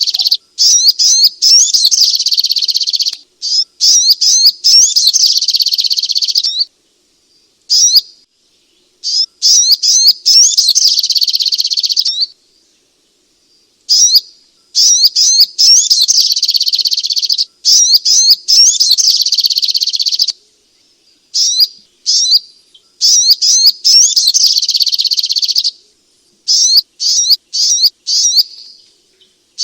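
Sogok ontong (little spiderhunter) singing: loud, rapid strings of high, sharp chirps in phrases lasting a few seconds, broken by short pauses.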